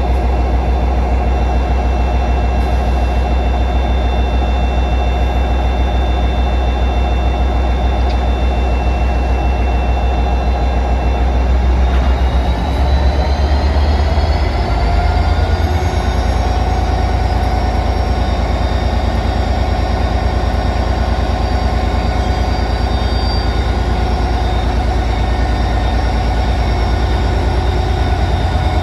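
Diesel-electric locomotives, a Class 57 and a Class 47, running with a heavy low rumble; about twelve seconds in the engines' note rises and then holds higher as they power up to pull the train away.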